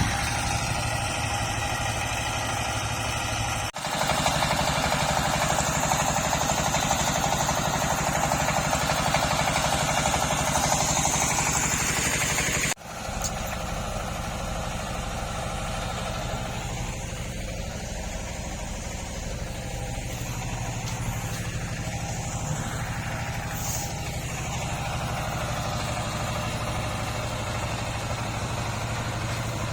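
Diesel truck engine idling steadily, interrupted twice by sudden cuts.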